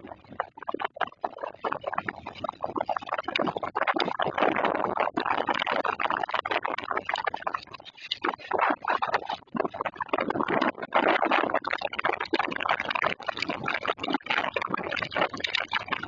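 Summer storm wind and rain: a noisy rush with crackling hits that swells in gusts, loudest about four seconds in, again around ten seconds, and at the end.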